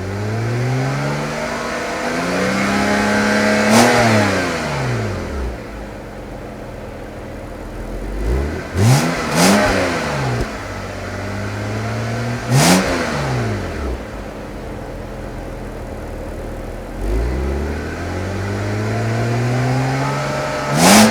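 BMW 128i's 3.0-litre inline six being revved from idle several times: a slow climb about four seconds in, two quick blips near the middle, another shortly after, and a longer climb ending in a sharp blip at the end, dropping back to idle between each.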